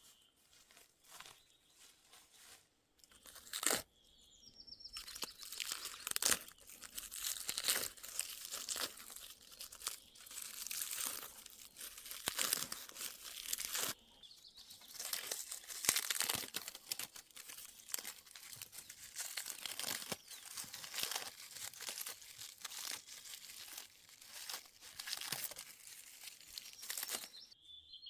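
Irregular crunching and tearing of dry plant material, in dense bursts with a short pause midway. A bird chirps about four seconds in.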